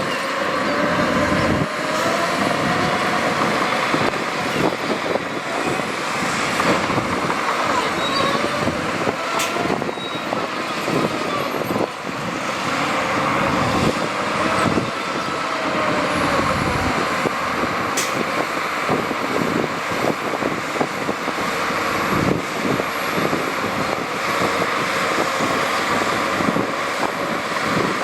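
Heavy diesel earthmoving machinery running: engine note wavering up and down as it works, with scattered clanks and knocks.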